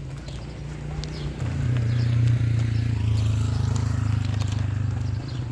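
An engine running steadily with a low hum, getting louder about a second and a half in and dropping back a little near the end.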